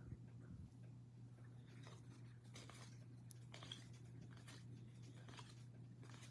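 Near silence: faint, scattered soft clicks and rustles of trading cards being handled, over a low steady hum.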